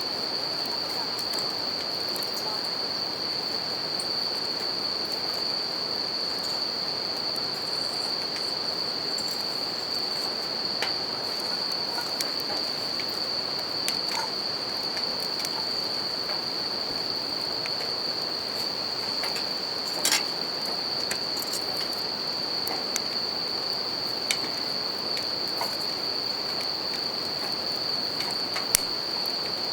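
Bell crickets (suzumushi) singing in a steady, continuous high trill over the even rush of a river. A campfire crackles with scattered pops, the sharpest about twenty seconds in and again near the end.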